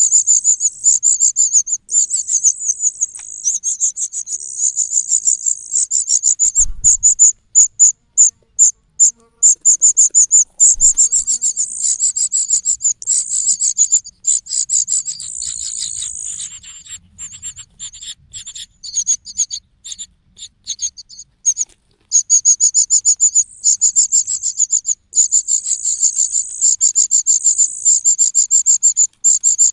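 Cuckoo chick giving high-pitched begging calls in long, rapid runs of chirps. The calls break into separate chirps about a quarter of the way through and turn quieter and more broken past the middle.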